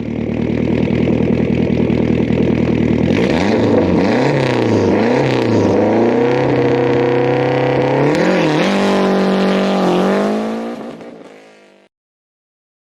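A car engine idling, then revved in quick repeated blips that rise and fall in pitch, then held at steadier higher revs before fading out near the end.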